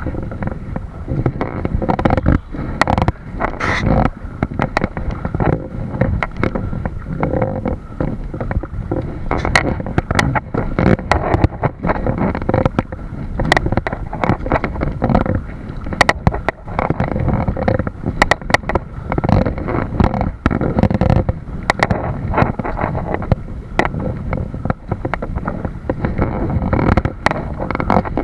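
Sounds of a kayak underway: a steady rumbling water noise against the hull, broken by frequent sharp knocks and clicks.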